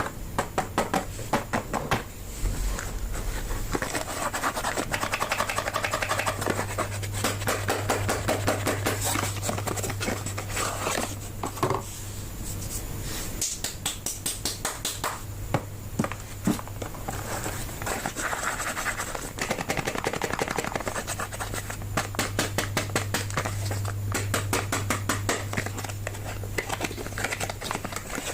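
Soap packaging being opened by hand: a dense, continuous crinkling and scratching of wrappers and boxes, with a few louder cracks.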